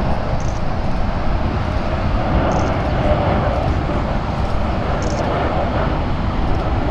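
Steady rumble of jet airliner engines, with no clear rise or fall.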